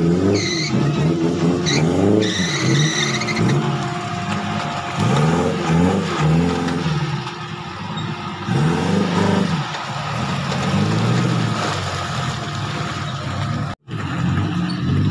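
Suzuki Jimny off-road 4x4 engines revving up and down again and again as the trucks climb out of a river onto a muddy bank, with short high squeals in the first few seconds. The sound drops out briefly near the end.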